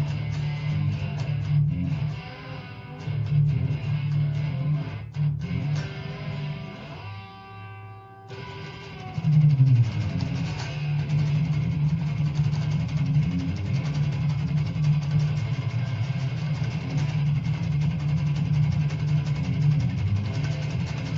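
Telecaster electric guitar playing a fast blues train rhythm. Picked phrases give way to a note left ringing about seven seconds in, then a steady, driving chug on the low strings.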